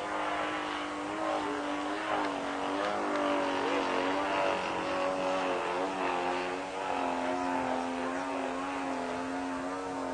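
Quadra Q65 two-stroke gas engine of a radio-controlled Fly-Baby biplane, fitted with a custom muffler, running steadily in flight, its pitch wavering gently up and down.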